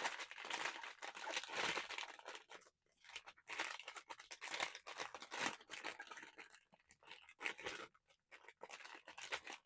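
Blind-box packaging being torn open and handled: irregular crinkling and tearing noises with brief pauses.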